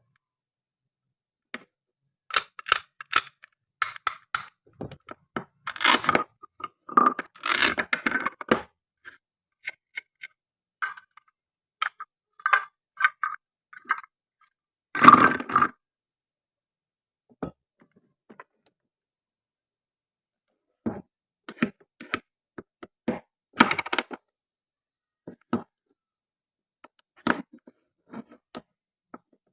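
Plastic and wooden toy fruit and vegetables being handled and cut with a toy knife: scattered short clacks and taps, with a few longer scraping sounds about 6, 7 and 15 seconds in.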